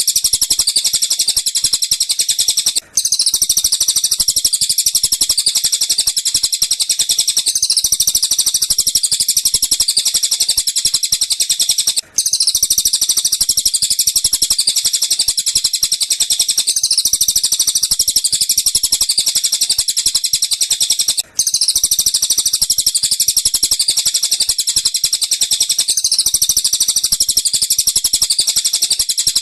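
Looped recording of rapid, high-pitched songbird chirping, used as masteran training song for lovebirds. The same phrase pattern repeats about every nine seconds, with a brief silent gap at each repeat.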